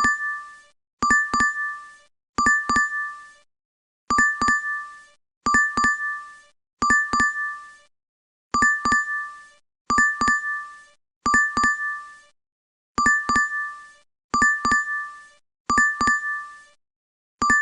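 DoorDash app notification chime, a quick burst of a few bright ding notes repeated over and over, about every second and a half.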